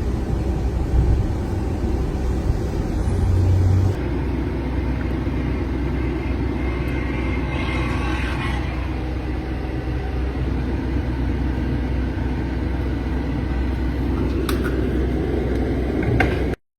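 Steady low rumble from inside a Sprinter van going through a car wash. A brief hiss comes about eight seconds in, and the sound cuts off suddenly near the end.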